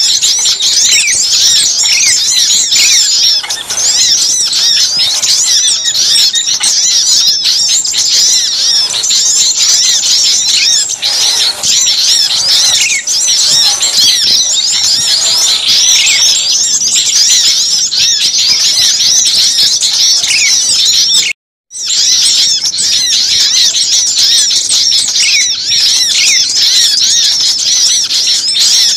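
A dense chorus of many small songbirds calling at once, a bird-lure recording of busy, overlapping high-pitched chirps and short twittering notes. It breaks off for a split second a little past two-thirds of the way through, then carries on just as thick.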